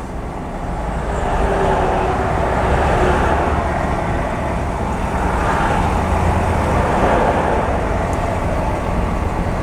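Articulated lorry running at road speed: a steady low engine drone under tyre and road noise, which swells about a second in and then holds.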